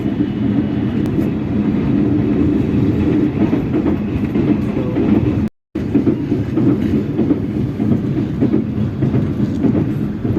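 Passenger train running along the track at speed, heard from on board: a steady rumble with rattling and clickety-clack from the wheels and coach. It cuts out abruptly for a moment a little past halfway, then resumes.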